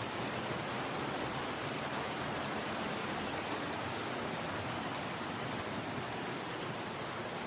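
Steady rush of flowing water from a river or stream, an even hiss with no breaks.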